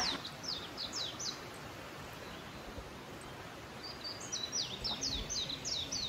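A songbird singing quick runs of high, down-slurred notes, one run at the start and another from about four seconds in, over a steady outdoor background hiss.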